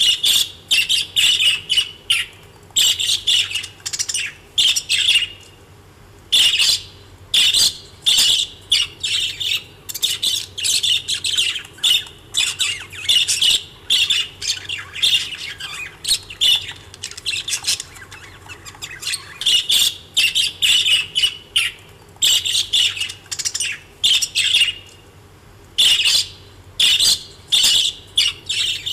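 Pet budgerigars and lovebirds chirping and squawking in quick clusters of sharp, high calls, broken by short pauses.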